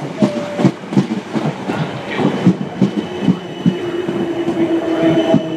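Electric multiple-unit train rolling slowly over pointwork, its wheels clicking and clattering in an uneven rhythm; a steady whine joins about halfway through.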